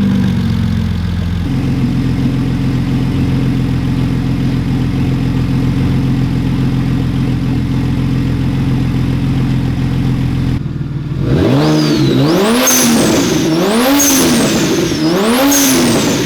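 BMW 335i turbocharged straight-six, converted to a single turbo, idling steadily just after start-up. About ten seconds in it is revved repeatedly, roughly one blip every second and a half, each rev carrying a high whistle that rises and falls with it.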